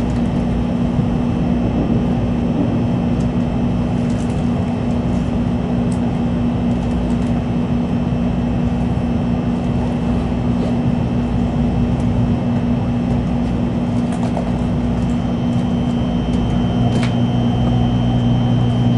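N700 Shinkansen train running at speed, heard from inside the passenger car: a steady rumbling drone of wheels and rails with several even, steady low hums. A deeper hum joins about 17 seconds in.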